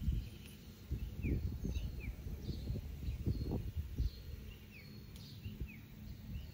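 Small birds chirping, with many short calls that rise and fall, scattered throughout. Under them, louder irregular rustling and bumping of tomato plants as ripe tomatoes are picked by hand.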